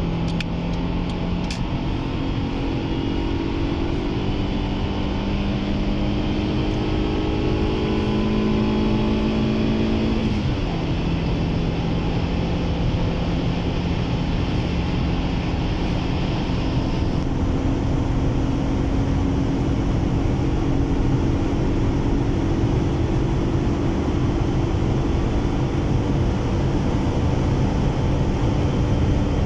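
1999 Honda Civic's 1.5-litre VTEC-E four-cylinder engine pulling hard at high speed, heard from inside the cabin: its pitch climbs slowly, drops with an upshift about ten seconds in, then climbs slowly again, over a steady rush of wind and road noise.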